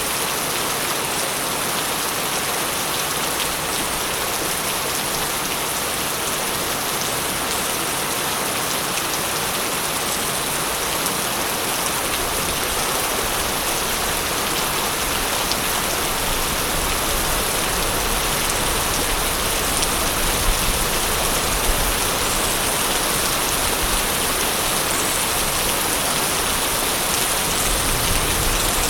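Steady, dense rain falling on a surface, with a low rumble of distant thunder building through the second half.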